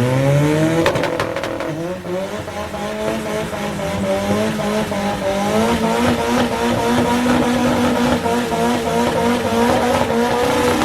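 Race car engine at full throttle down a drag strip. Its pitch climbs steeply at launch, with a quick run of sharp cracks about a second in and a brief dip around two seconds. After that it holds a long, high, steady note that creeps slowly upward.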